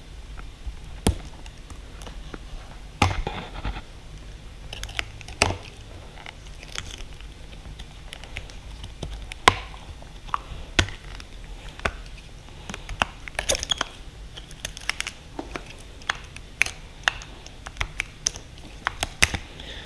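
Irregular clicks, taps and short scrapes of hand work on a dirt bike's handlebar controls, with parts and tools knocking together, over a low steady hum.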